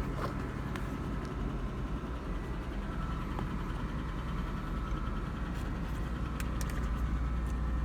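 Ford F-150 engine idling steadily, with a few faint ticks near the end.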